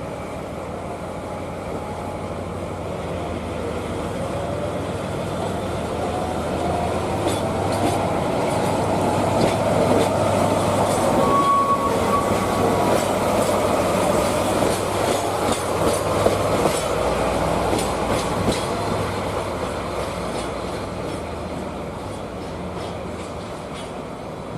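Diesel-hydraulic shunting locomotive passing at low speed: a steady engine hum swells to its loudest around the middle and then fades. Wheels click over rail joints as it passes, with a brief wheel squeal near the middle.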